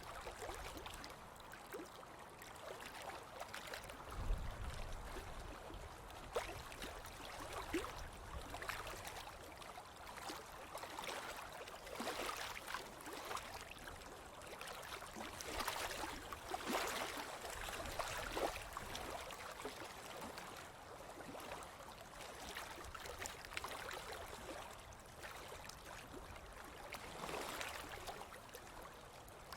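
Ocean waves washing onto a beach, the wash swelling and easing several times. A brief low rumble about four seconds in.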